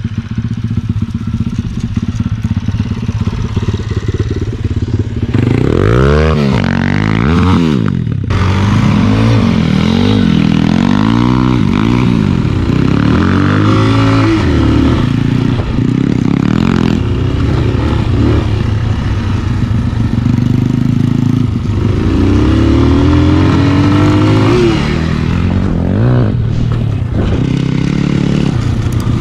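Spark SP250D-1 250 cc motorcycle engine running steadily at first, then revving up and down again and again as it is ridden off-road.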